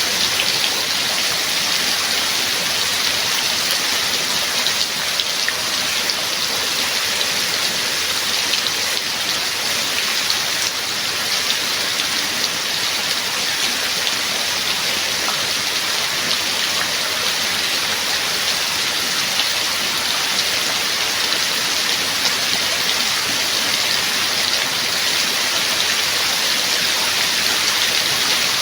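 Steady rain falling: a dense, even hiss of raindrops that holds unchanged throughout.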